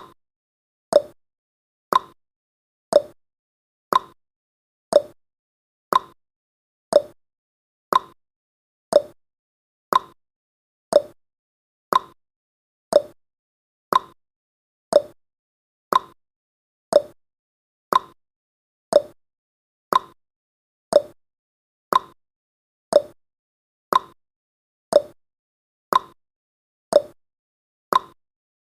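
Clock-style tick-tock sound effect of a countdown timer: one sharp tick every second, alternating between a lower and a higher tick.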